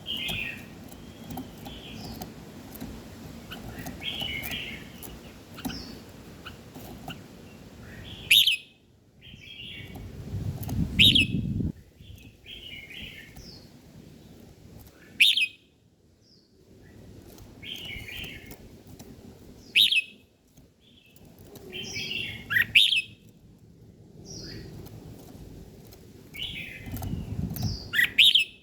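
Songbirds chirping and calling in short, repeated phrases, punctuated by about six sharp, loud chirps. A low rumble comes twice, around the middle and near the end.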